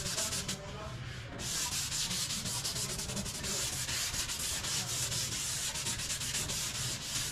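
Sanding of Bondo body filler on a car body panel: a short burst of sanding, a brief pause, then steady continuous sanding from about a second and a half in.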